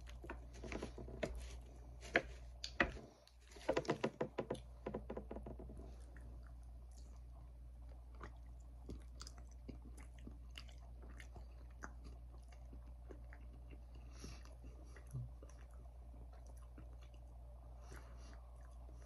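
A person chewing a tender barbecue-sauced meat patty close to the microphone. A quick run of clicks and taps comes in the first few seconds, then fainter chewing with scattered small ticks.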